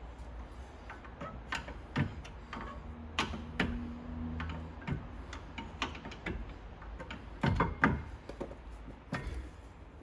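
Irregular clicks and light metallic knocks of tools and parts being handled at a brake caliper during a brake pad change.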